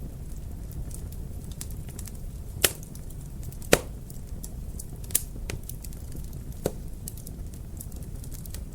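Wood fire in a fireplace crackling over a steady low rumble, with scattered small ticks and four sharper pops, the loudest between about two and a half and four seconds in.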